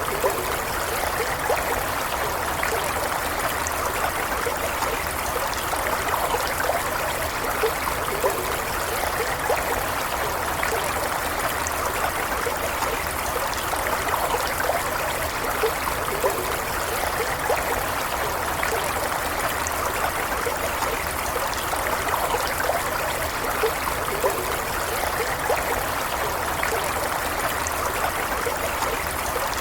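Stream water running steadily over stones, a continuous gentle flow with small trickling splashes.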